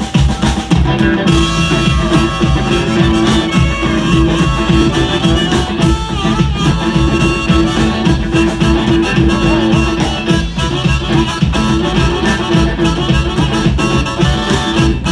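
Live blues band playing an instrumental intro, with harmonica leading the melody over guitar, bass and drums.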